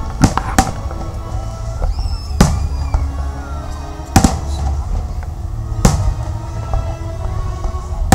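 Fireworks shells bursting in loud, sharp bangs at uneven intervals, about five big ones, over music with a heavy bass playing from loudspeakers.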